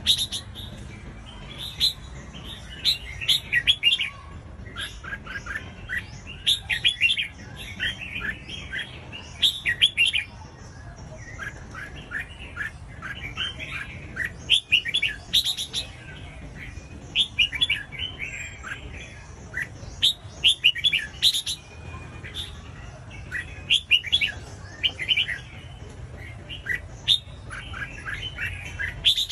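Red-whiskered bulbul singing: short phrases of quick, chirpy notes repeating every second or two, over a faint low hum.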